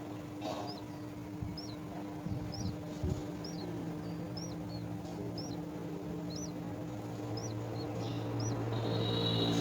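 A bird at a nest chirping repeatedly: about a dozen short, high, hooked chirps, roughly one every second. Underneath runs a steady low hum, and a low rumble grows louder near the end.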